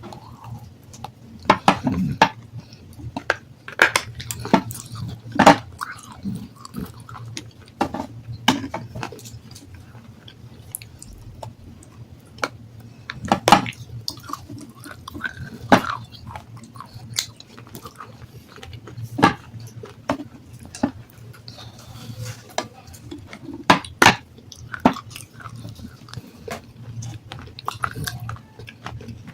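Close-miked biting and chewing of black, water-soaked sandstone: sharp, irregular crunches every second or two, over a steady low hum.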